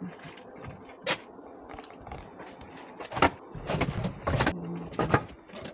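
Split firewood logs clunking against each other as they are stacked onto a cart, several separate wooden knocks.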